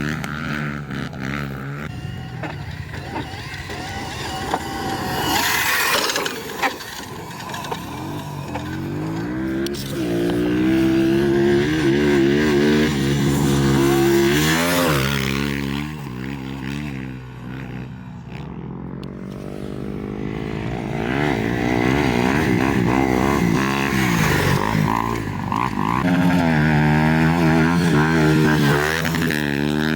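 Dirt bike engines revving and running up through the gears, the pitch climbing and dropping again and again as the riders accelerate and shift, with a quieter stretch near the middle.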